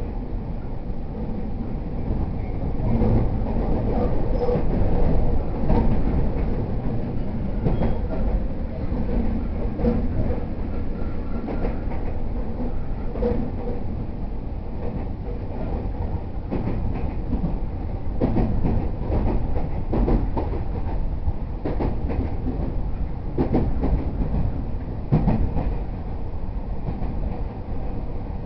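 E231-series 0 electric commuter train running between stations, heard from inside the car: a steady low rumble of wheels on rail, with irregular clicks and knocks from the track.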